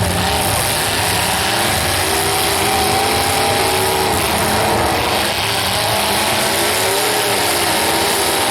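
Demolition derby car engines running and revving, their pitch rising and falling repeatedly over a steady wash of noise.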